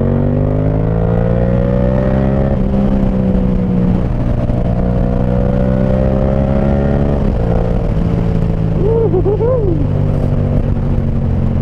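Yamaha MT-07's parallel-twin engine through an SC Project Conic 2-into-1 aftermarket exhaust, accelerating hard in third gear. The engine note rises in pitch, drops abruptly about 2.5 seconds in, climbs again more gently, drops again about 7 seconds in, then holds a steady note.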